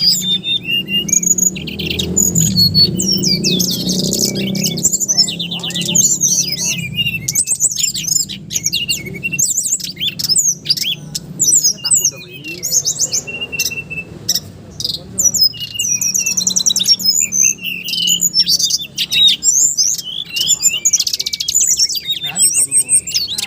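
A songbird singing loudly and almost without a break: rapid runs of high chirps, trills and whistles. A low hum sits under the song for the first several seconds.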